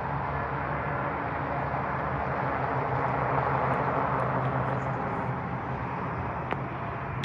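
Local train running past, a steady rumble of wheels and running gear with a low hum underneath, swelling slightly in the middle. A single sharp click near the end.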